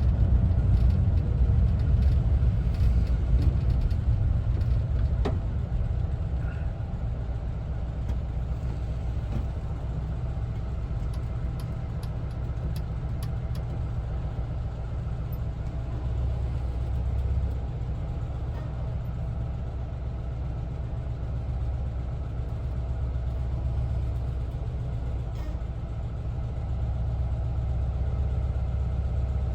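Air-cooled flat-four engine of a 1974 Volkswagen Westfalia camper van running, heard from inside the cab. It is louder for the first few seconds, then settles to a steady, lower drone.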